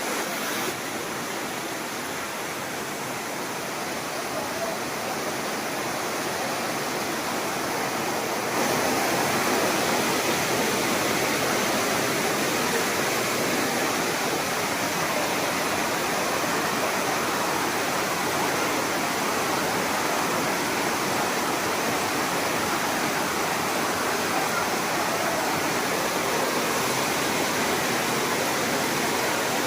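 Floodwater rushing and churning steadily, getting louder about eight seconds in.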